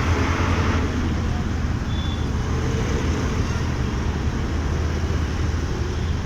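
Motorcycle running through city traffic: a steady low engine rumble under road and traffic noise, with a louder rush of noise in the first second and a brief high tone about two seconds in.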